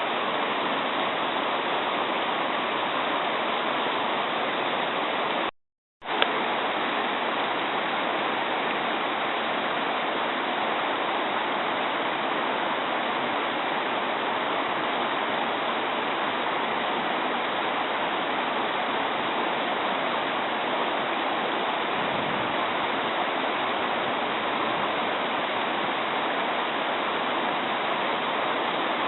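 Mountain stream babbling, a steady rush of flowing water. About six seconds in the sound drops out for half a second and comes back with a click.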